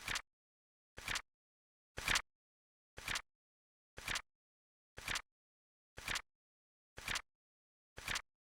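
Flip clock timer sound effect ticking once a second: short, dry clicks with silence between them, nine in all. The one about two seconds in is slightly louder.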